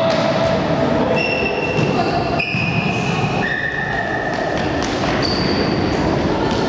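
Futsal play on an indoor court: a ball being kicked and thudding, and several high squeaks about a second long, at different pitches, that sound like shoes on the court floor, all over a steady hall background.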